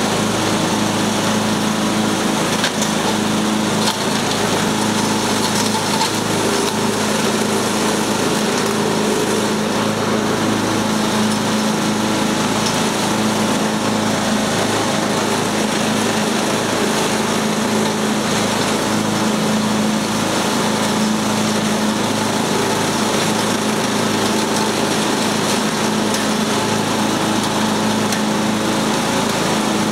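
Craftsman lawn mower engine running at a steady speed, with an unchanging hum and noise throughout.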